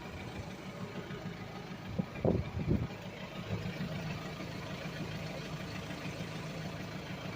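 An engine idling steadily with an even low hum. A few short louder sounds come about two seconds in.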